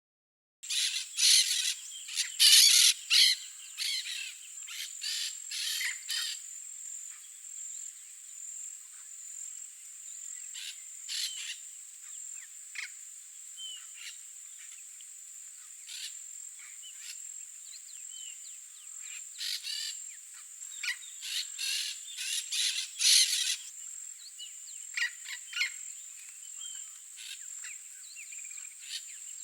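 Blaze-winged parakeets giving harsh, screechy calls in irregular bursts, loudest in a cluster near the start and again about three-quarters of the way through, over a steady high-pitched insect drone.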